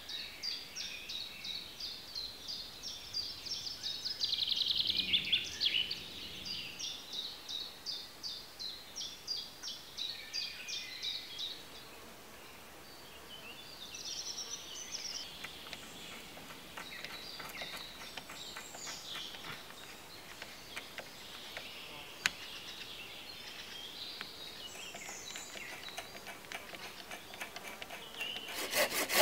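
Forest birdsong: a bird repeats quick high chirps for about the first twelve seconds, with a louder trill about five seconds in, then scattered calls. Right at the end a hand drill starts boring into a wooden pole with a fast, even scraping rhythm.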